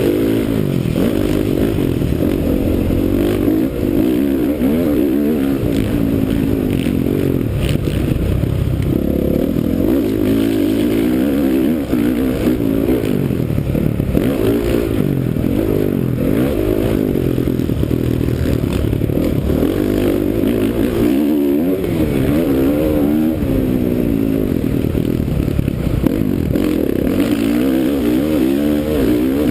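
2009 Honda CRF450R's single-cylinder four-stroke motocross engine at race pace, its note rising and falling over and over as the rider opens and closes the throttle, with clatter from the bike over the track.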